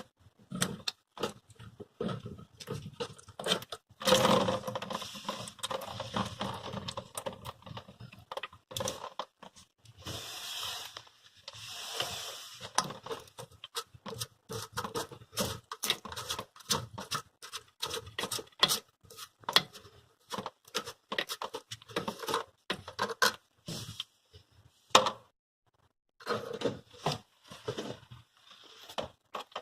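Hands working on toilet tank parts: irregular clicks, knocks and scraping of plastic pieces, with a couple of longer hissy rustling stretches and one sharper knock near the end.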